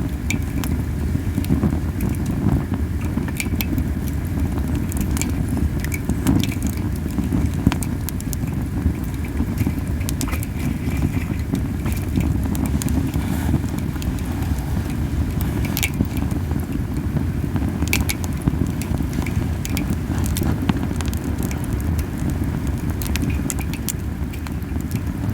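Camellia-wood campfire burning hard: a steady low puffing of strongly drawing flames, which the fire being too hot makes prominent, with scattered sharp crackles and pops from the wood.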